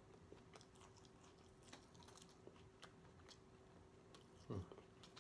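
Quiet mouth-closed chewing of a chorizo taco: faint soft clicks scattered throughout, with one brief, louder low sound about four and a half seconds in.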